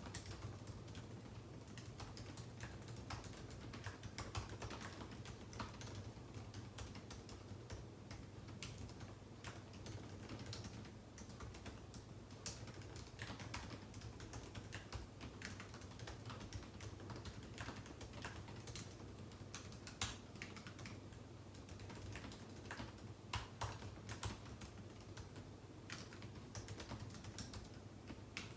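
Continuous typing on a computer keyboard: quick, irregular key clicks with short pauses, over a faint steady low hum.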